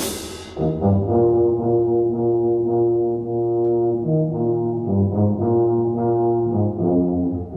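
Brass music: held chords of brass instruments such as trombones, changing every second or so.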